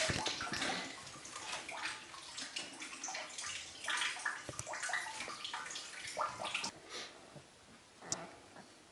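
Liquid being splashed and sloshed in a container, as in the handling of fresh cheese in salted liquid, with irregular small splashes and drips that die away toward the end.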